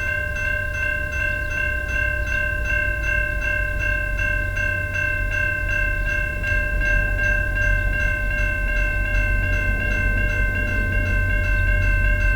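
Level-crossing warning bell ringing with rapid, even strokes, while the low rumble of an approaching VIA Rail train, led by an F40PH diesel locomotive, grows louder toward the end.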